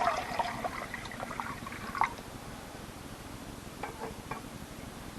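Water sloshing in a jug as it is handled, with a few light knocks and clicks.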